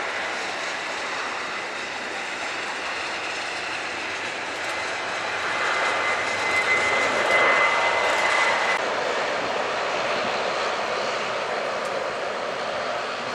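Airliner engines passing, with a steady rushing noise and a thin high whine. The sound swells about halfway through, is loudest a couple of seconds later, and then eases off.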